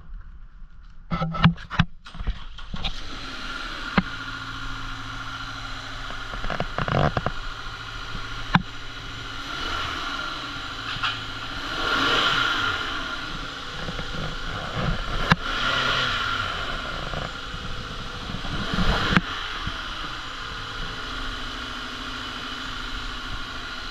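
2021 Subaru Forester 2.5L flat-four engine starting about two seconds in, then running, with a few brief revs later on.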